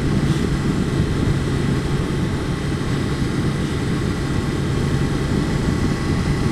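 Motorcycle engine running steadily while riding along, a constant low drone with no change in pace.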